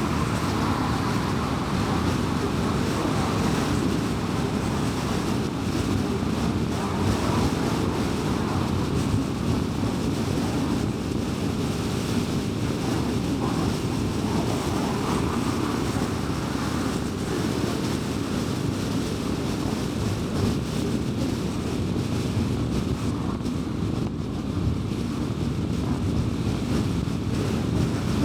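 Car driving at highway speed: steady tyre and road noise with a low, even hum.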